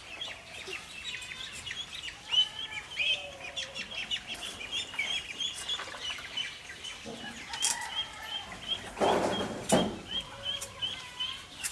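Chickens clucking amid a run of many short, high repeated chirps, with a brief rustling noise about nine seconds in.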